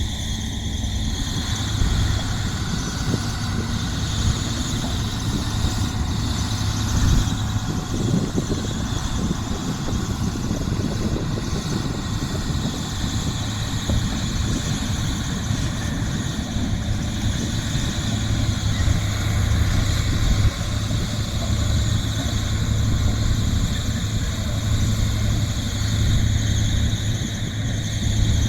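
Heavy machinery engine running steadily with a constant low hum and a continuous high-pitched squeal.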